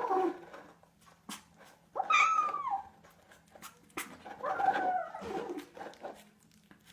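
A domestic cat making strange whining, drawn-out calls: the tail of one at the start, then two more, about two seconds in and about four and a half seconds in. The first full call falls in pitch.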